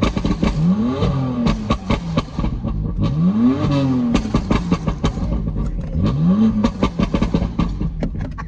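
BMW M3 F80's twin-turbo inline-six, fitted with an equal-length exhaust, revved three times in neutral: each time the pitch climbs quickly and then falls back, with crackles and pops from the exhaust throughout.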